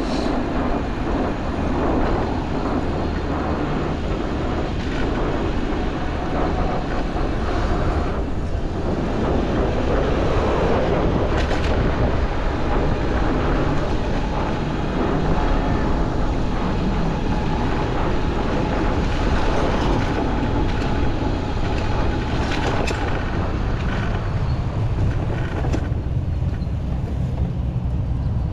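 Wind rumbling on the microphone of a moving bicycle, mixed with the steady noise of city traffic going by.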